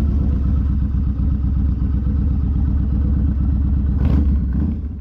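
Motorcycle engine running steadily at a low, even beat, with a brief louder rush of noise about four seconds in. The sound fades out at the very end.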